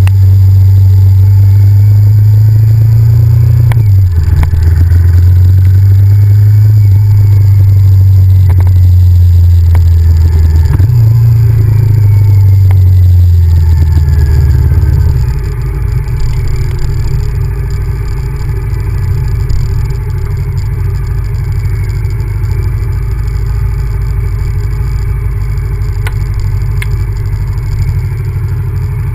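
Honda VTR1000F's V-twin engine pulling under throttle, its note climbing and dropping sharply twice as it shifts up. About halfway through it falls back to a quieter, steady low rumble.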